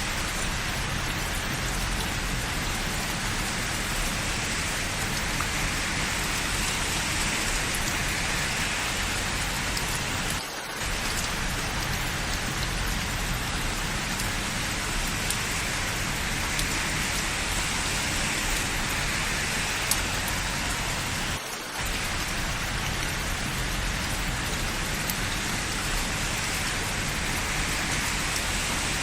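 Steady rain falling on hard surfaces, an even hiss with a low rumble underneath. It drops out briefly twice, about ten and twenty-one seconds in.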